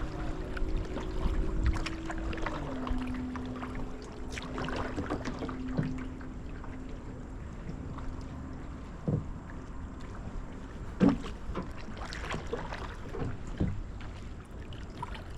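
Kayak out on the water: scattered paddle splashes and knocks on the hull. Under them runs a steady hum that drops a little in pitch about three seconds in.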